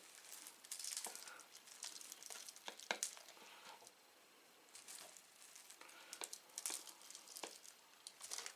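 Faint handling sounds: scattered light clicks, taps and rustling of containers and packaging being moved about, with a few sharper ticks.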